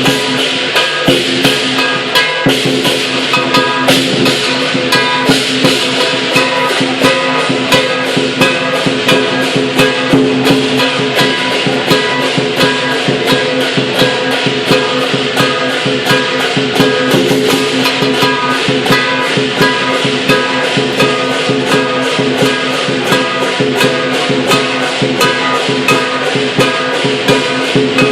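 Lion dance percussion ensemble of drum, cymbals and gong playing a steady, fast beat, the metal ringing on between strokes.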